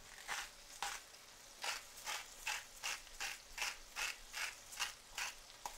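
Hand-twisted seasoning grinder mill grinding salt or pepper over the pan: a run of regular ratcheting clicks, about two to three a second.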